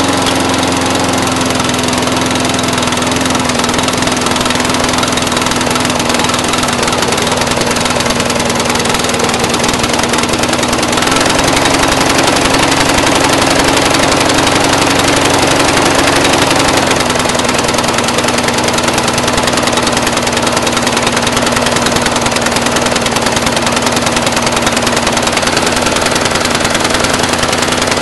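Briggs & Stratton 450 series lawn mower engine idling rough, a steady uneven running that lifts slightly in pitch and level for a few seconds in the middle before settling back. The owner pairs this rough idle with black smoke and a sooty spark plug on an almost new engine.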